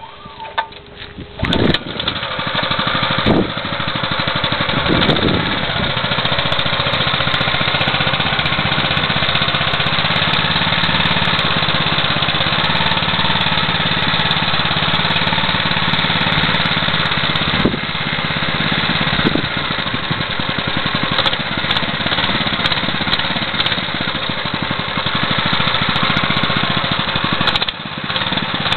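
Baja 196cc mini bike's small single-cylinder four-stroke engine, pull-started, catching about two seconds in and then running steadily at idle.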